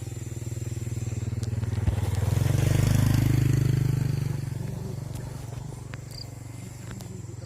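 A motorcycle passing by, its engine growing louder to a peak about three seconds in and then fading away.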